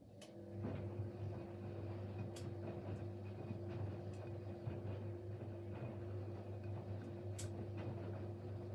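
Siemens Siwamat Plus 574 washing machine's drum motor starting after a click and running with a steady hum as the drum turns during the main wash, with a few sharp clicks.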